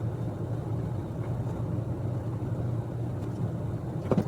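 Steady low mechanical hum with a rumble, and a single sharp click about four seconds in.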